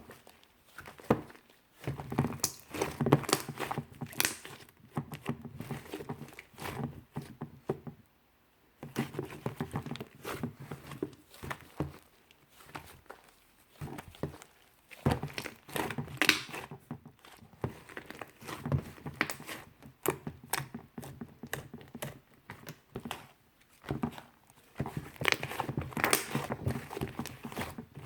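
Hands kneading and pressing a soft, fluffy clay slime: bursts of sticky squishing with many small crackling clicks and pops, broken by brief pauses.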